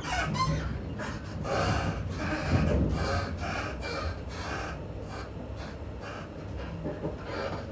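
Passenger train running at speed, heard from inside the carriage: a steady low rumble of wheels on rail with a rushing noise over it that pulses two or three times a second.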